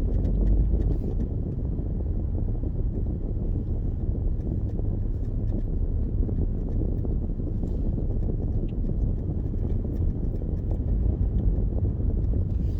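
Steady low rumble of a car driving with its windows open, heard from inside the cabin: road, engine and wind noise without a break.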